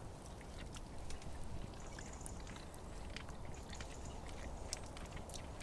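Campfire crackling: scattered small irregular pops and ticks over a faint low rumble.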